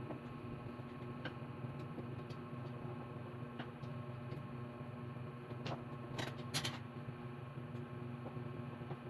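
A few light, sharp clicks and taps, with a quick cluster of them about six seconds in, over a steady low hum.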